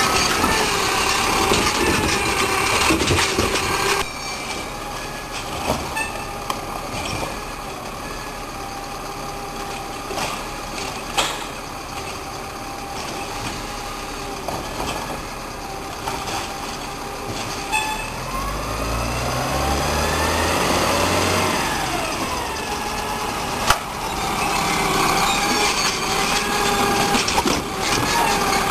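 Garbage truck running with a steady engine and hydraulic drone. About two-thirds of the way through the engine revs up and back down, and a few sharp knocks come through.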